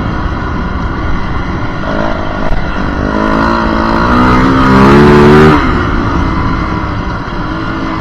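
Yamaha WR450F's single-cylinder four-stroke engine running under way: about three seconds in it revs up, rising in pitch to its loudest near five and a half seconds, then drops away suddenly as the throttle is shut.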